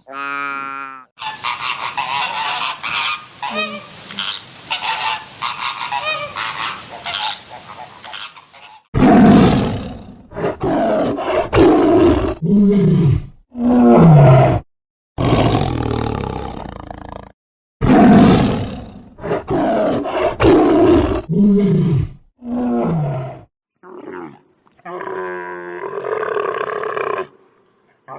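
A large wild animal calling: a run of loud, rough roar-like calls about a second long with short gaps, some sliding in pitch, after a few seconds of noisier rasping sound, with softer calls near the end.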